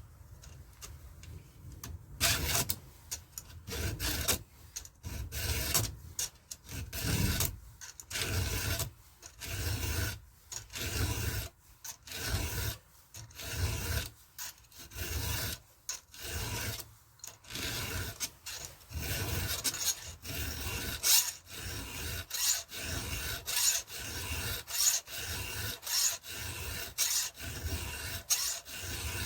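Hand file stroking across the cutters of a Stihl MS 170 chainsaw chain, sharpening it. The rasping strokes start about two seconds in and repeat at an even pace, a little over one stroke a second.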